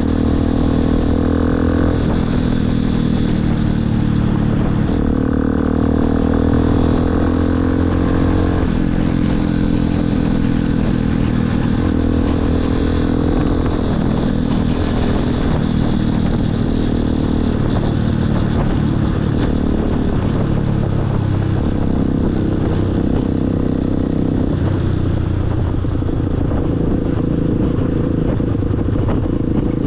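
Motorcycle engine running under way. Its pitch climbs and then drops back several times as the throttle opens and the gears change, over steady wind and road noise.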